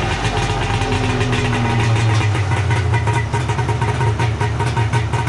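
Polaris 650 three-cylinder two-stroke snowmobile engine on SLP aftermarket pipes, running loud and steady with a rapid, even firing beat, the sound filling a small garage.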